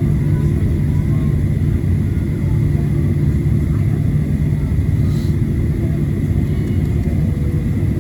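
Steady cabin rumble of a Boeing 737-700 taxiing after landing, heard from inside the passenger cabin: its CFM56 engines running at taxi power, with a thin steady high whine over the low drone.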